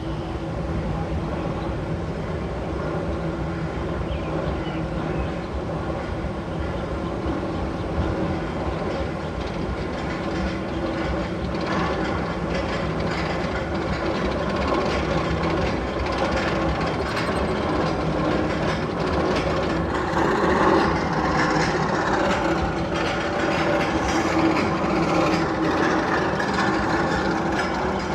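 A train rumbling and clattering along rails, with a steady underlying hum; it grows somewhat louder and brighter about halfway through.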